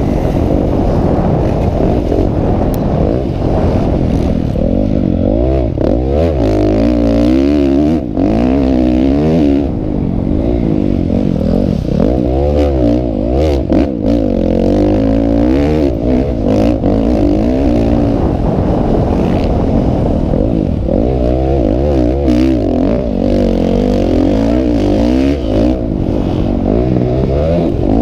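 Motocross motorcycles racing, several engines revving up and down over one another.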